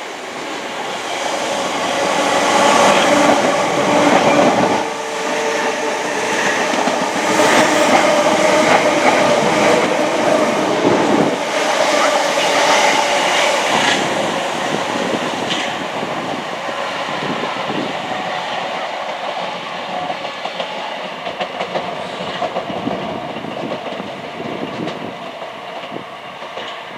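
Passenger train running past on the line below: a sustained rumble of wheels on rail with clickety-clack knocks over the joints and a steady whine. It is loudest in the first ten seconds or so and eases off toward the end.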